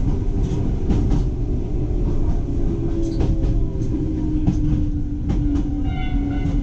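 Iga Railway electric train running, heard from the cab: a steady motor whine slowly dropping in pitch over a low rumble, with wheels clicking over rail joints. A brief high squeal near the end.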